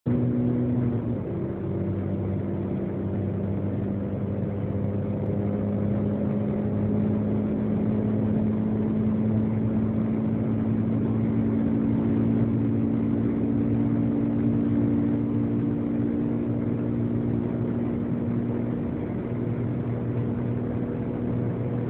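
Turbocharged engine of a Seat Ibiza Cupra fitted with a TD05H-18G turbo, heard from inside the cabin under full load at high speed, about 207 to 268 km/h. It drops in pitch about a second in, then holds a steady drone whose pitch creeps slowly upward as the car gains speed, over wind and road noise.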